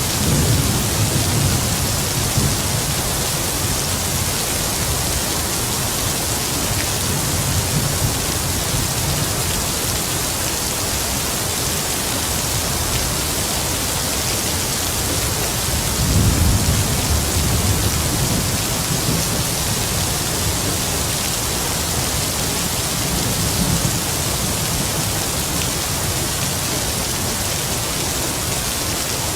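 Heavy rain falling steadily, with low rumbles of distant thunder rolling in several times, strongest just after the start and again about halfway through.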